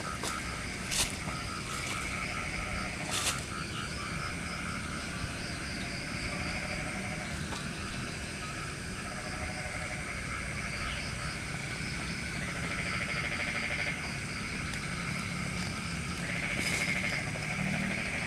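Night chorus of frogs and insects: overlapping rapid pulsing calls at several pitches, over a low rumble, with two sharp clicks about one and three seconds in.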